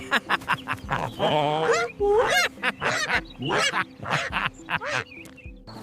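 A rapid run of short calls whose pitch bends and wavers, goose-like, over faint background music.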